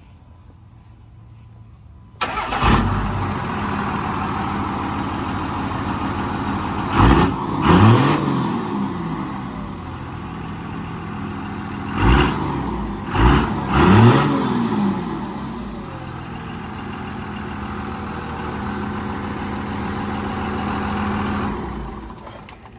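Diesel pickup truck engine cold-started about two seconds in and settling into a steady idle, then revved in quick blips, twice around seven seconds in and three times around twelve to fourteen seconds in, each rising and falling in pitch, revved to blow black smoke ('coal'). It idles on and cuts off near the end.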